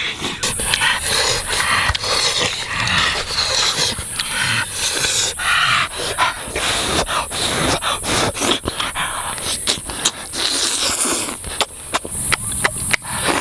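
Close-up mouth sounds of eating cooked turtle meat: wet chewing, lip-smacking and breathing, with many quick irregular clicks, over a steady high-pitched hiss.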